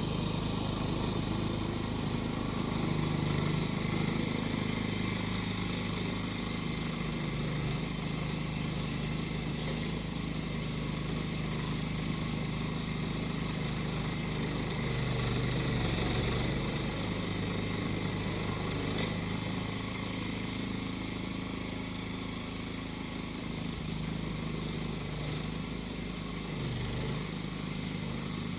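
Small petrol engine of a grass-cutting machine running steadily, its pitch dipping briefly three times, with cicadas shrilling behind it.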